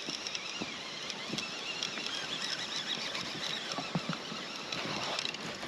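Steady hiss of light rain falling, with a few faint taps and clicks.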